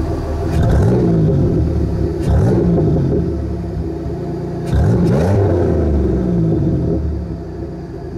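Supercharged 3800 V6 in a Pontiac Fiero, exhaust through a Flowmaster muffler, idling and blipped three times. The revs come about half a second in, a little after two seconds and near five seconds, each rising quickly and falling back to idle.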